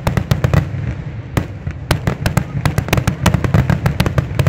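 Fireworks finale: a rapid barrage of aerial shell bursts, many sharp bangs and cracks a second over a continuous low rumble.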